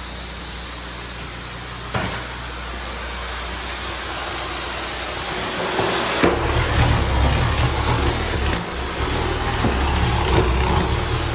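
Tile-and-grout cleaning equipment running: a steady machine drone with a hiss over it, growing louder and deeper about six seconds in, with an odd click.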